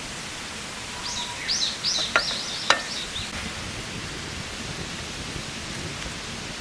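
A bird calls a quick run of about five high, arching notes, with two sharp clicks among them, over a steady background hiss.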